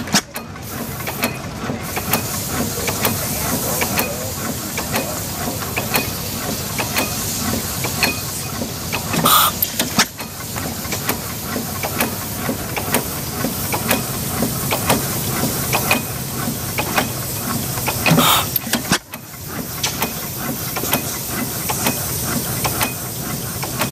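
Stationary engines running: a steady hiss crowded with fast clicks and pops, with two louder bursts about 9 and 18 seconds in.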